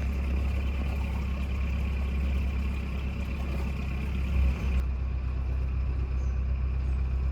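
Narrowboat's diesel engine running steadily while cruising, a low even hum.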